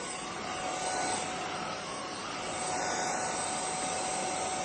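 Dyson V11 cordless stick vacuum cleaner running steadily on its lowest power setting: an even airy rush with a thin steady whine from the motor.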